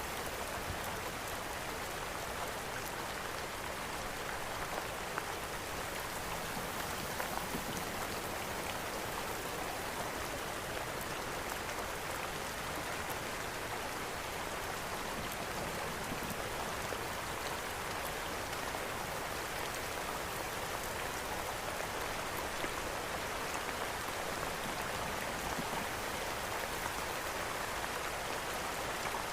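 Steady rain falling, mixed with the small scattered crackles of a wood fire in a fireplace.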